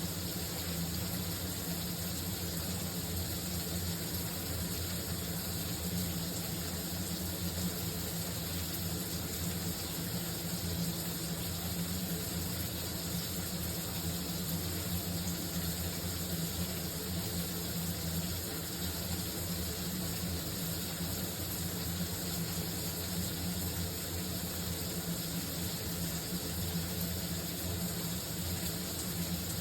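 Shower water running steadily, an even spray hiss with a steady low hum underneath.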